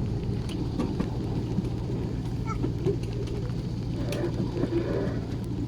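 Miniature railway train running along its track: a steady low rumble with scattered clicks and knocks.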